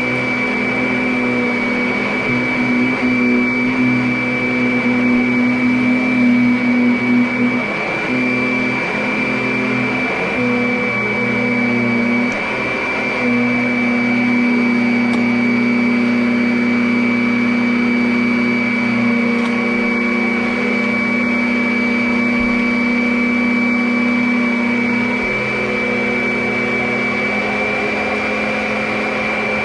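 Vacuum cleaner running steadily: an even motor hum under a high steady whine, with the hum wavering and briefly dropping a few times in the first half.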